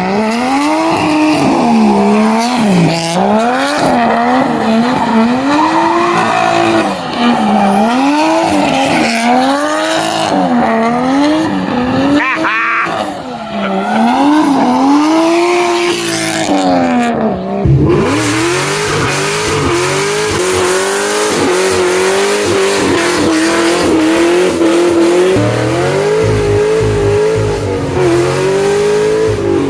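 A car's engine revving up and down over and over, about once a second, with tyres squealing as the car drifts. After an abrupt cut about two-thirds of the way through, an engine holds high revs with small wobbles in pitch.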